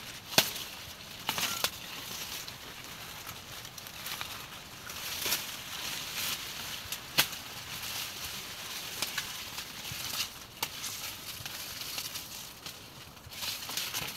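Scattered sharp knocks and clicks, single or in pairs, one to a few seconds apart, over a faint steady hiss.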